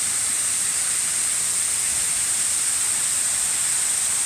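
Waterfall rushing steadily, heard as an even hiss with a strong high, bright edge.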